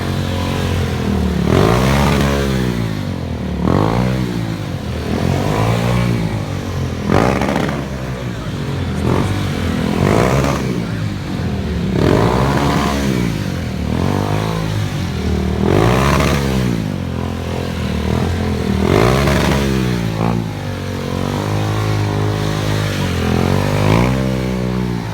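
Stunt motorcycle engine revving up and falling back over and over, about once every two seconds, as the rider works the throttle through his routine.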